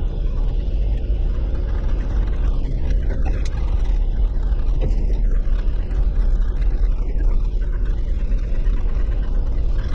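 Off-road Jeep's engine running at low speed, a steady low rumble.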